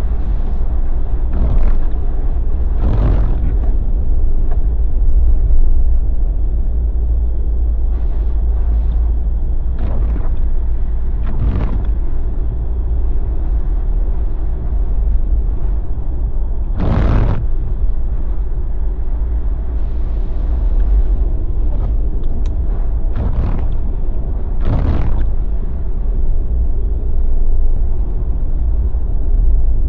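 Jeep driving on a snowy road: a steady low rumble of tyres and engine, with several short whooshes along the way, the loudest about halfway through.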